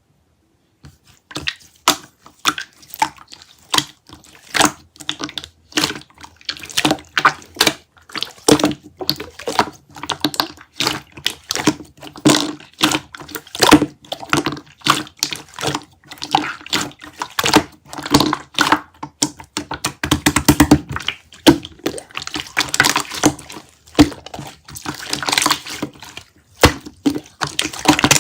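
Ice cubes clinking and knocking in a cup of liquid, a dense run of quick, irregular clicks.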